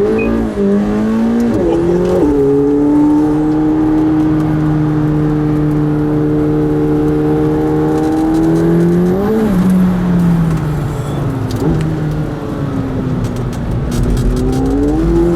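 McLaren 720S twin-turbo V8 heard from inside the car. It climbs and shifts up quickly a few times, then holds a steady pitch for several seconds. About nine seconds in the revs briefly rise and fall, and near the end they climb again.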